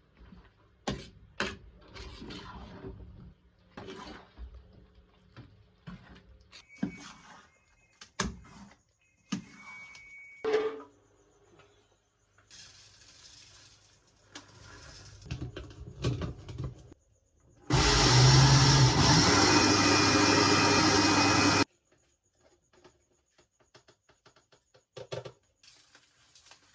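Kitchen work sounds: a string of knocks, clinks and scrapes of pots and utensils. Then a loud steady rushing noise runs for about four seconds and cuts off suddenly.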